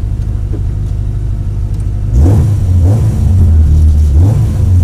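Peugeot 205 GTI's four-cylinder engine, heard from inside the cabin, idling steadily, then blipped up from about two seconds in and held at raised revs with repeated rises in pitch, as the car waits at a rally stage start.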